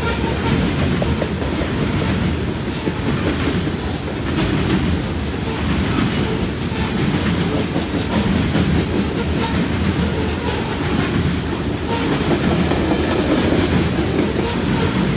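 Freight train's covered hopper cars rolling past at close range, their wheels rumbling steadily with a clickety-clack over the rail joints.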